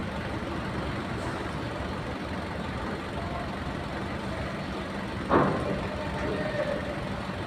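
Heavy truck diesel engines running steadily with a low hum while the trucks are manoeuvred into parking on a ferry's vehicle deck. A sudden loud knock comes about five seconds in.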